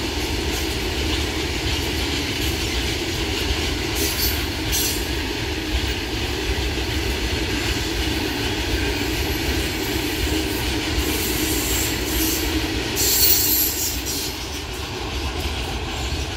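Loaded open coal wagons of a freight train rolling past: a steady rumble of wheels on rail, with high-pitched wheel squeals about four seconds in and again around thirteen seconds in.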